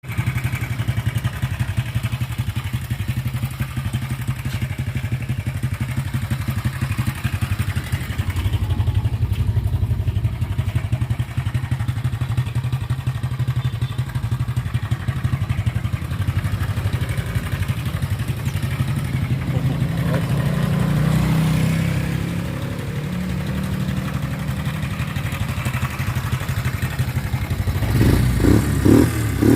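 Viar Bit scooter's single-cylinder engine idling steadily, which the seller describes as smooth. It picks up slightly about two-thirds through, then is revved in several quick throttle blips near the end.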